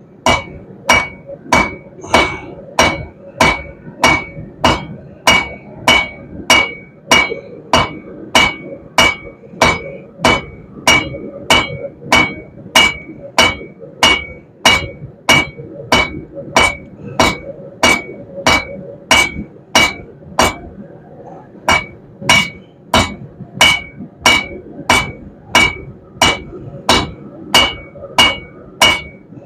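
Blacksmith's hammer striking hot half-inch round steel bar on an anvil in a steady rhythm, about one and a half blows a second, each blow ringing. The hammering breaks off briefly about two-thirds of the way through, then resumes at the same pace.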